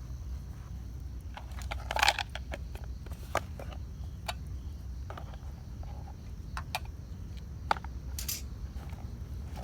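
Wood campfire crackling, with scattered sharp pops over a steady low rumble; the loudest pop comes about two seconds in.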